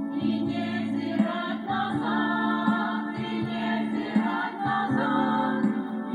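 Christian worship band playing, with several voices singing together over sustained chords and bass and regular drum hits.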